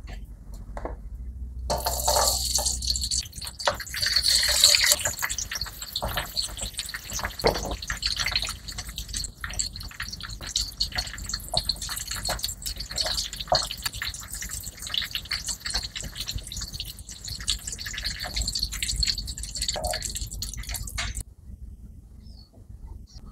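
Hot oil sizzling and crackling in a wok as shallots, garlic, chillies and tomatoes fry. The sizzle starts suddenly about two seconds in and cuts off shortly before the end.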